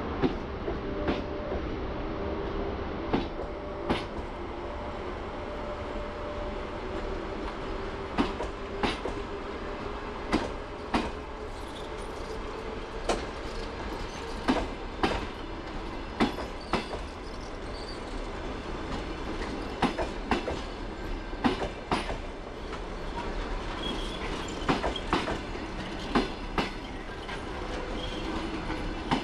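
Passenger coaches rolling slowly past as the train pulls out, their wheels clicking over the rail joints, often in close pairs. The clicks come more often toward the end as the train picks up speed.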